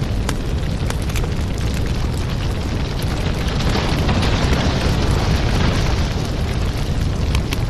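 Wood fire burning in a fireplace: a steady low rumble of flame with many scattered sharp crackles and pops, swelling slightly midway.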